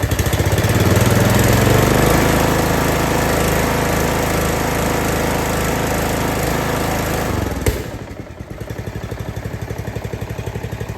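Briggs & Stratton single-cylinder Intek engine on a zero-turn riding mower running at raised throttle on its first start after an engine swap. Near the end a sharp click is heard and the engine drops to a slower, quieter idle.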